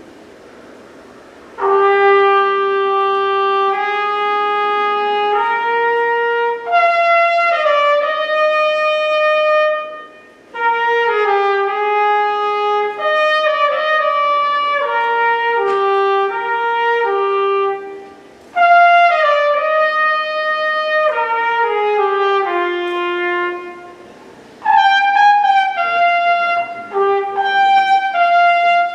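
Trumpet playing a single melody line, coming in about a second and a half in. The melody moves from note to note in phrases, with short breaks between them.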